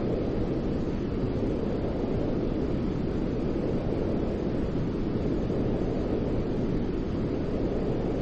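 Continuous white noise for sleep: an even, unchanging rush weighted toward the low end, with no tones and no breaks.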